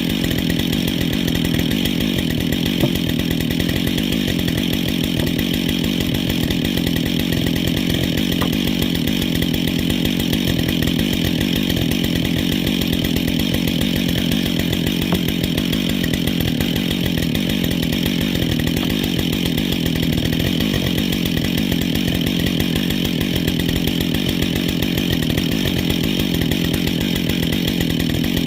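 Husqvarna 572 XP two-stroke chainsaw running steadily at an even engine speed, without let-up.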